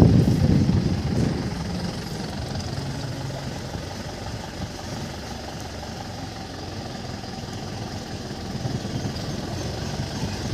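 Motor vehicle engine running at idle, a steady low rumble that is louder for the first second or so, settles quieter, and builds again near the end.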